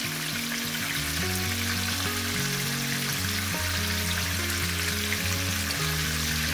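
Pork chops sizzling steadily as they fry in hot oil in a skillet. Background music with low sustained notes plays underneath.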